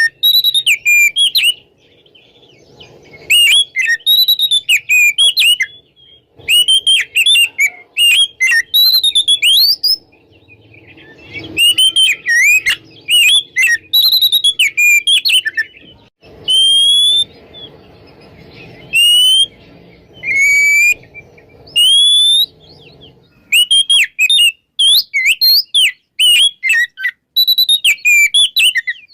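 Oriental magpie-robin singing loud, clear whistled song: bursts of rapid, sweeping notes strung into phrases, broken by short pauses of a second or two.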